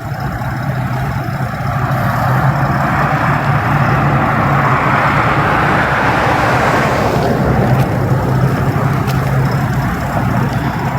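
Motor vehicle noise: a steady low engine hum with road noise that swells in the middle and eases off again.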